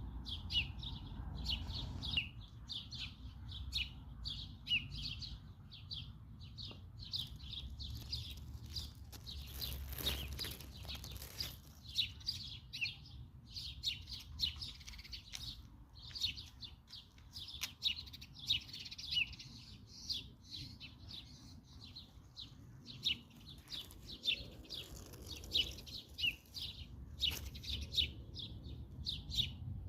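Small songbirds chirping and twittering, many short calls overlapping without pause, over a low steady rumble.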